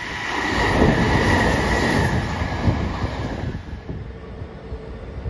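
Sanyo Electric Railway electric train passing through a station at speed: a heavy rumble of wheels over the rail joints with a steady high whine through the first couple of seconds. The noise drops away about four seconds in to a quieter, more distant rail rumble.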